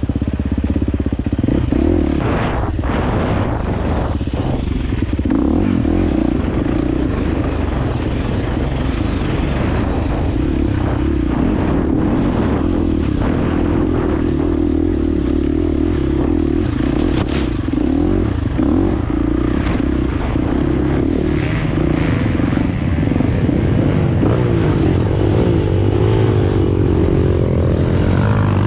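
Dirt bike engine running steadily while riding, with scattered knocks and rattles. Near the end the engine note wavers up and down as the throttle changes.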